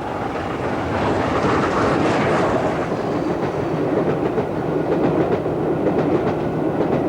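A steam-hauled train approaching and running past, growing louder over the first second, with a steady clatter of wheels over the rail joints.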